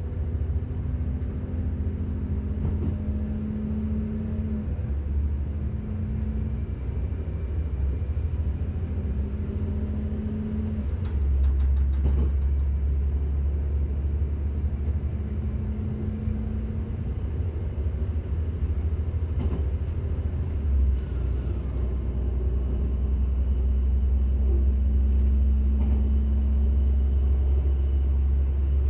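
Inside a diesel passenger train running along the line: a steady low rumble of the engine and wheels on the track, with a humming tone that comes and goes. A few short clicks come near the middle, and the rumble gets louder about eleven seconds in.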